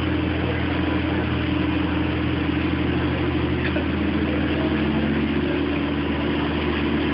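Motor vehicle engine idling steadily, a continuous low drone whose pitch shifts slightly partway through.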